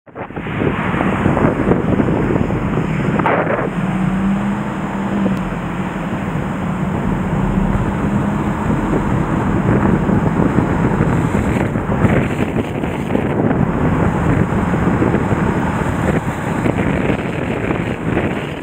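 A river in flood after a typhoon, its swollen, fast water making a loud, steady rushing noise. Wind buffets the microphone.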